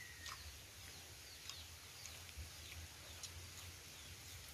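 Faint background birdsong: short, high chirps that slide downward, repeating every half second to a second, over a low steady hum.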